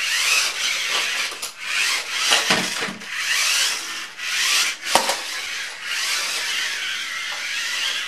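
Small electric motors of a KAWO five-wheeled RC stunt car whining, rising and falling in pitch as it drives and spins, with its rubber tracks scrubbing the floor. A couple of sharp knocks, about two and a half and five seconds in, as the car bumps or tumbles.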